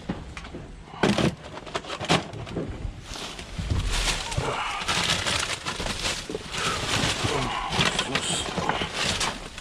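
Plastic bags and food packaging rustling and crinkling as they are handled and sorted, with scattered sharp knocks and clicks from items being moved about.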